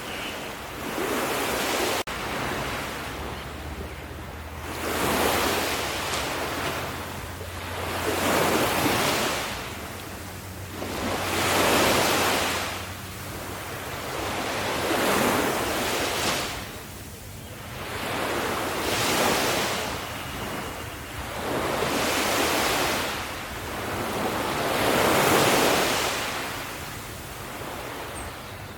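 Ocean waves breaking on a beach, one surge of surf rushing in and drawing back about every three to four seconds.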